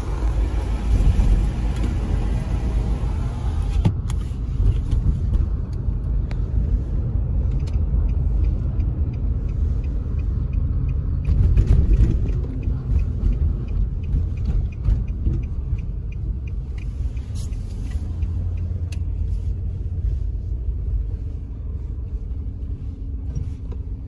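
Steady low rumble of a car driving, heard from inside the cabin, with a rushing wind hiss that falls away about four seconds in.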